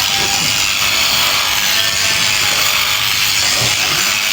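Electric sheep shears running steadily as they cut through fleece, a continuous hissing buzz.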